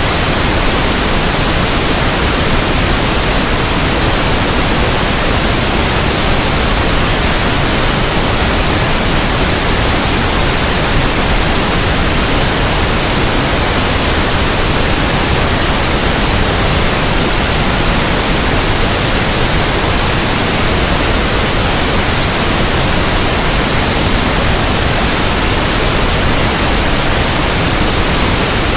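Steady, unchanging pink noise: an even hiss with no breaks or changes.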